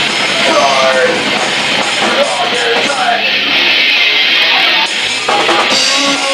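Rock band playing loud J-rock with distorted electric guitar, with a voice singing over it.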